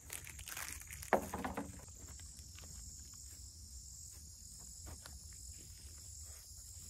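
A steady, high-pitched insect drone, with rustling and a sharp knock about a second in, followed by faint scattered clicks.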